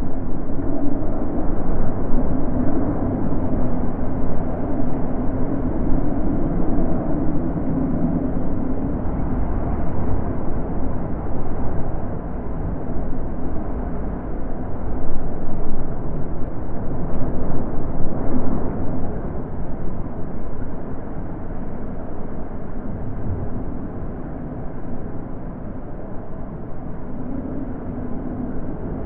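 Wind blowing in gusts: a low, steady rushing that swells and eases, with its strongest surges about halfway through and a calmer spell near the end.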